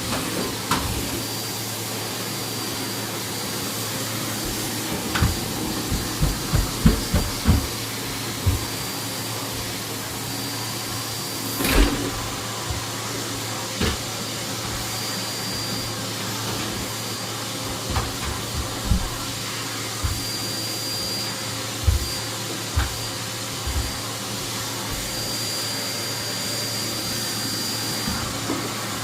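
Henry cylinder vacuum cleaner running steadily with a constant hum, and repeated short dull knocks throughout, a quick run of them about six to eight seconds in.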